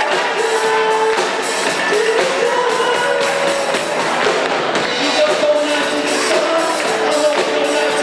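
Live band playing a pop-rock song, with singing over guitar and a steady drum beat.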